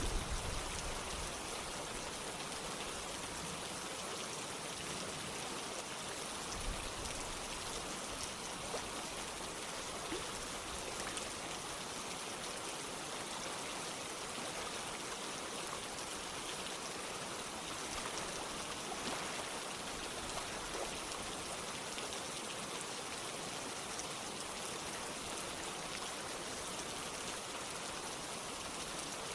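Steady rain with running water: an even hiss with scattered drop sounds, and a brief low thump right at the start.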